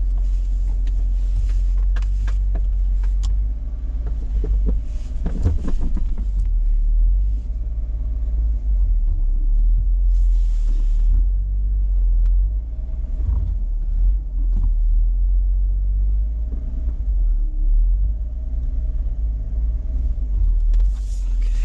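2012 Jeep Wrangler JK's 3.6-litre V6 engine running as the Jeep creeps onto traction boards in mud, under a heavy, steady wind rumble on the microphone.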